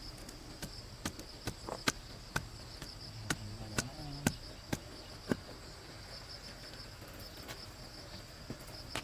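Insects droning steadily in a high, even band, with a run of about a dozen sharp, irregular knocks in the first five seconds.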